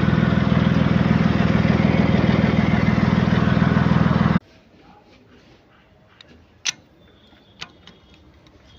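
Backhoe loader's diesel engine running steadily with an even pulse, cut off abruptly about four and a half seconds in. Then a quiet background with a couple of sharp clicks, like metal parts being handled.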